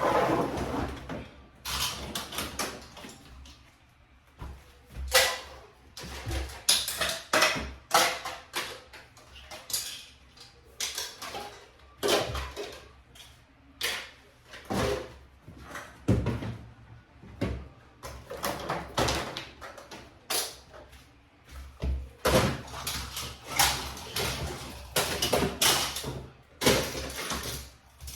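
Irregular knocks, bumps and clatters of doors being shut and things being moved, one or two a second.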